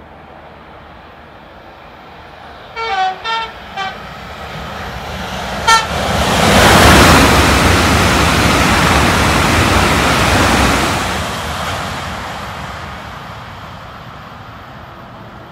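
Southeastern Class 395 'Javelin' electric high-speed train sounding its horn as it approaches: two quick toots and a shorter third, then one brief toot about two seconds later. It then passes at speed, its wheel and air noise growing loud and holding for about five seconds before fading away.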